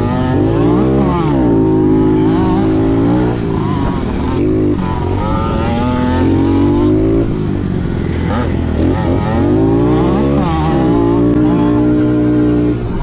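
Motocross dirt bike engine revving hard on the track, its pitch climbing, holding high, then dropping, again and again as it is ridden through the gears.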